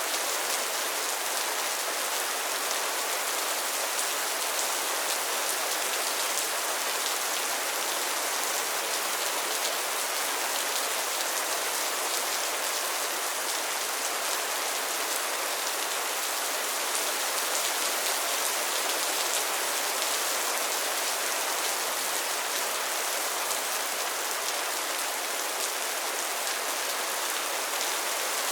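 Steady rain falling on a pond's water surface and lily pads: a dense, even patter of many drops.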